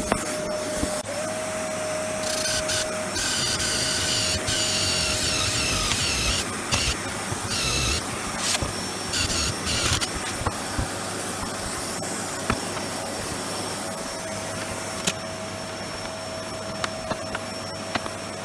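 An electric power tool running, with a steady whine and repeated short bursts of harsher high-pitched noise, mostly in the first half.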